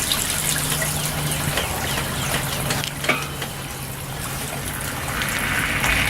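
Groundwater gushing into a concrete manhole through a leak, a steady rushing of water with a low hum running under it and a few small clicks.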